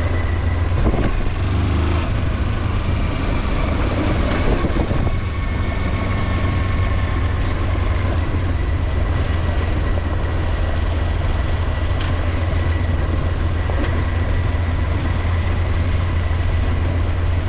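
Kawasaki Versys-X 300's parallel-twin engine running as the motorcycle is ridden, a steady deep engine note with a thin high whine held over it.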